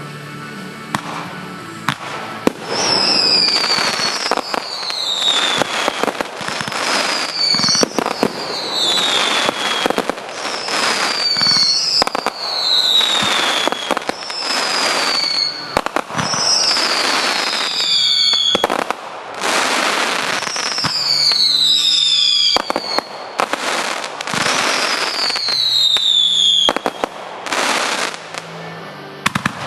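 Fireworks going off in quick succession: dense cracking and popping, with repeated falling whistles every second or two.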